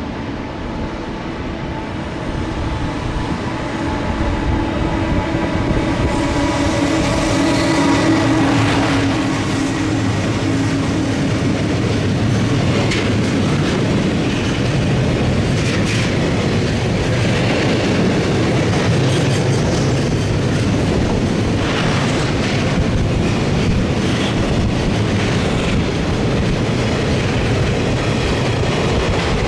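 JR Freight EF210 electric locomotive hauling a freight train past at close range: a few held tones over the rising rumble for the first several seconds, then a long string of tank cars and container flatcars rolling by with a steady wheel-on-rail rumble and scattered clacks over the rail joints.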